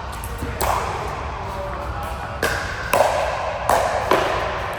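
A rally on an indoor court: five sharp racket-and-ball strikes at uneven intervals, each ringing briefly in the large hall.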